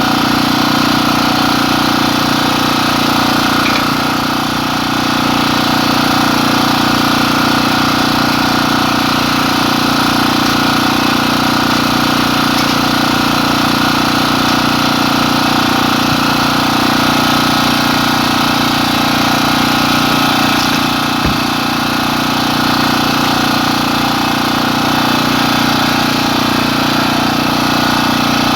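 An engine running steadily at an even speed, with a brief click about 21 seconds in.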